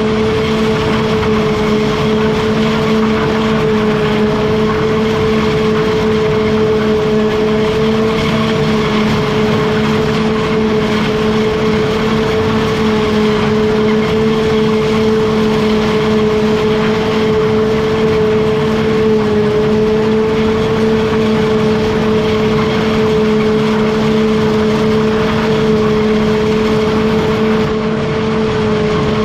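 Engine of farm machinery running steadily at a constant governed speed: an even, unchanging hum with no revving.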